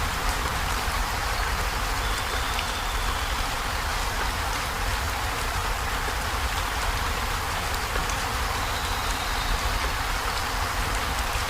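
Heavy rain falling steadily on a corrugated zinc roof, a dense, even patter with a low rumble underneath.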